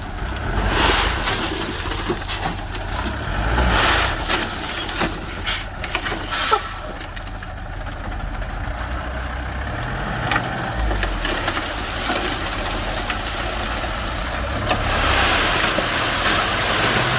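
Heavy diesel truck engine running, with several short, sharp sounds over the first half and a louder hiss near the end.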